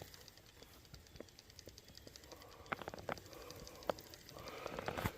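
Faint, scattered handling clicks and light knocks, a few seconds apart, with a sharper click near the end, over a quiet steady background.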